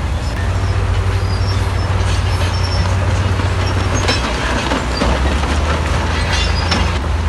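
Bulldozer's diesel engine running with a steady low rumble, with metallic clanks and short squeaks from its crawler tracks that come thickest in the second half.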